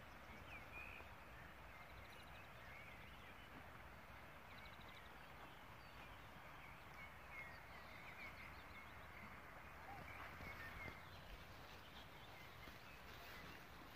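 Faint outdoor countryside ambience: a steady, even hiss with faint, distant bird chirps now and then.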